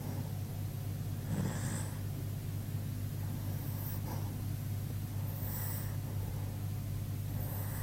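An old dog snoring in its sleep, a soft snorting breath about every two seconds, over a steady low hum. The snoring is much like a person's.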